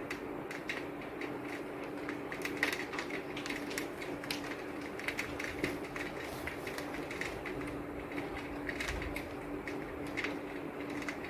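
Rain falling steadily, with a constant hiss and irregular sharp taps of drops striking a hard surface, over a steady low hum.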